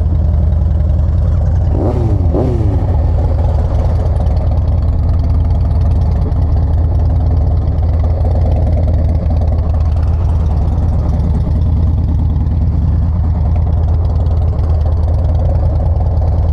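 Motorcycle engine running steadily close to the microphone, a deep even hum with no big revs.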